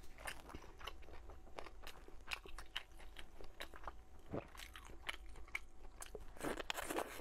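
Close-miked chewing of a glazed pork meatball, with many small sharp mouth clicks, then a louder bite into another meatball near the end.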